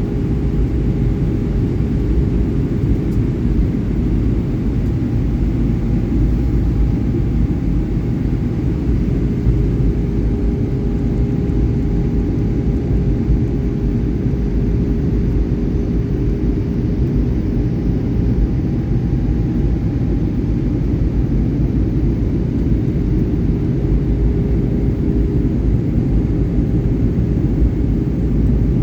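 Airliner noise: a steady, loud low rumble of engines and airflow, with a faint steady hum over it and no change in pitch or level.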